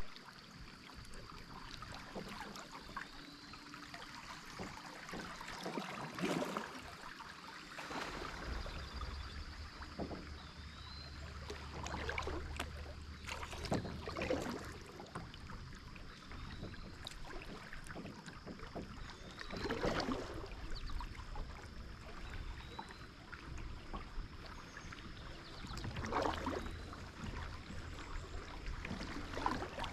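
Kayak paddle strokes dipping and splashing in a stream, a few seconds apart, over the steady sound of flowing water.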